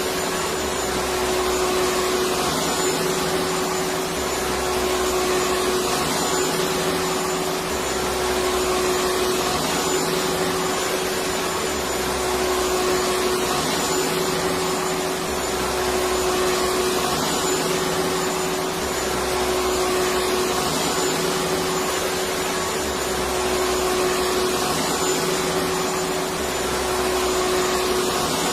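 Electric vacuum cleaner running continuously: a steady whooshing rush of air with a constant motor hum, and a low rumble that swells and fades about every four seconds.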